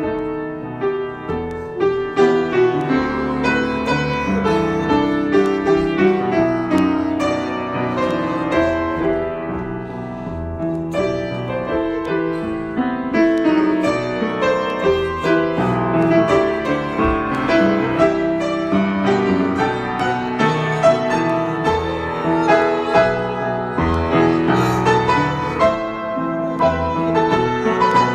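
Improvised solo piano playing, many notes sustained and overlapping in a flowing, continuous texture.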